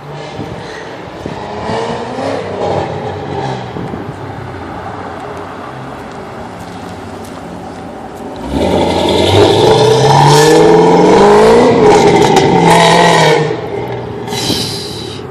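2010 Ford Mustang GT's 4.6-litre V8 running through an off-road X-pipe and Flowmaster Super 10 mufflers. It idles with a couple of light blips, then about halfway through it is revved hard, held high for about five seconds and let drop, with one more short blip near the end.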